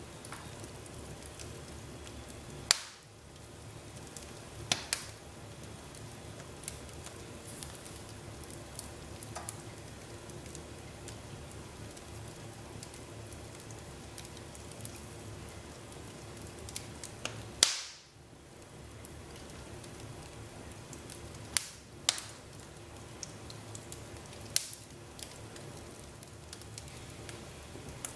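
Fire crackling in a fireplace: a steady hiss broken by scattered sharp pops, the loudest a little past halfway.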